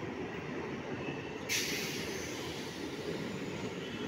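Passenger train coaches rolling past, a steady rumble of wheels on the track, with a short sudden hiss about a second and a half in.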